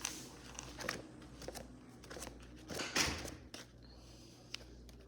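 Small toys being handled: scattered light clicks and rustles, with a louder rustle about three seconds in.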